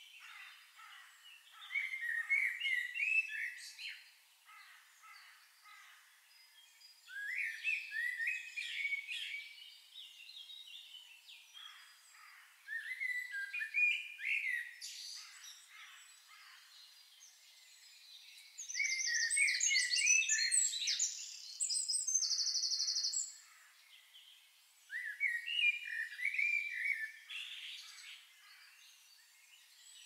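Songbirds singing in short, chirping song phrases that come back every few seconds. About two-thirds of the way through, a higher, rapid trill joins in.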